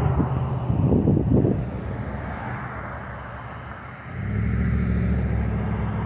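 A vehicle engine idling with a low, steady hum. It fades for a couple of seconds in the middle and then comes back.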